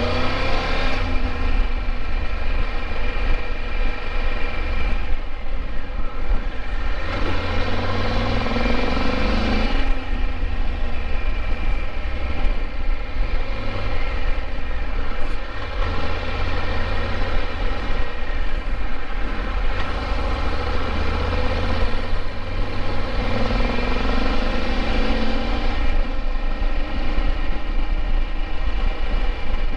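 Triumph Tiger 1200 three-cylinder motorcycle engine running on the move, rising in pitch as it accelerates three times, under a steady low rumble of wind buffeting.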